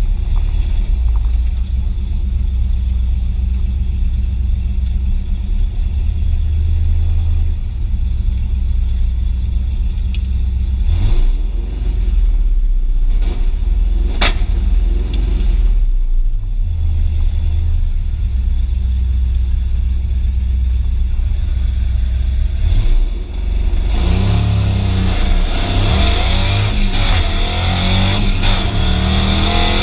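A 1983 Fox-body Mustang's engine, heard from inside the cabin, rumbling at the start line, then pulling hard down a drag strip on a 100-shot of nitrous, with brief dips in the sound at the gear changes.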